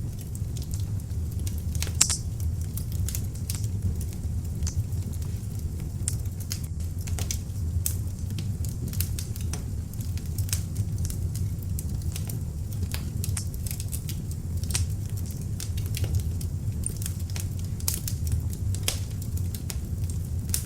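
Beech logs burning in an open fireplace: a steady low rumble of flames with frequent sharp crackles and pops.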